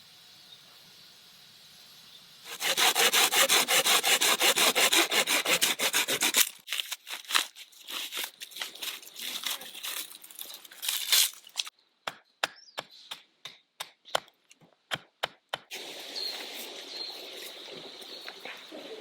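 A hand saw cutting through wood in fast, even strokes for about four seconds, followed by a scattered run of sharp clicks and knocks.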